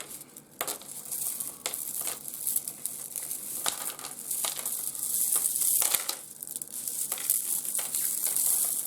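A parcel of small rough opal pieces being shuffled around by hand: a dry, scratchy rustle with many small clicks as the stones rub and tap against each other.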